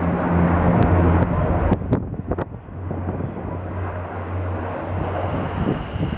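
Canadair firefighting water bomber flying over, a steady low propeller-engine drone that is loudest in the first couple of seconds. A few sharp clicks sound over it early on.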